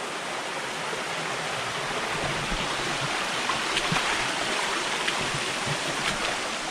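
Waterfall on a forest river: falling water rushing steadily and evenly, with no pauses.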